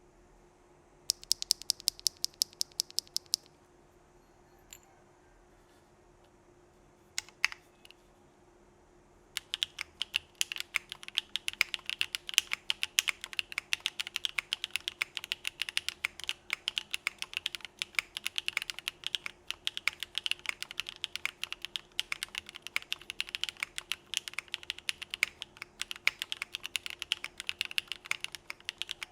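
Keystrokes on a Geonworks Frog mechanical keyboard with Krytox-lubed Z1 linear switches (PC top, PA66 bottom) in an aluminum plate, without foam, under CRP Desko keycaps. A quick run of about a dozen clicks comes about a second in, then two lone clicks, then continuous typing from about nine seconds in.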